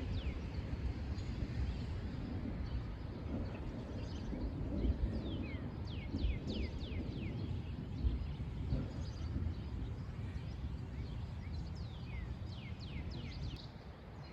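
A bird giving runs of quick, downward-sweeping chirps, one run around the middle and another near the end, over a steady low outdoor rumble.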